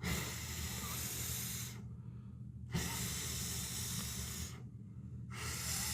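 A person blowing hard by mouth into a smouldering wood fire to get damp wood to catch: three long breaths of rushing air, each nearly two seconds, with short pauses to draw breath.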